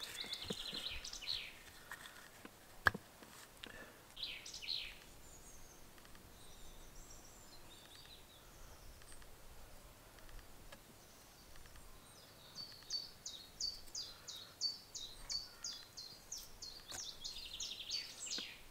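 Woodland birds singing: short high chirping phrases, then a long run of evenly repeated high notes at about four a second from around two-thirds of the way in. A single sharp knock about three seconds in.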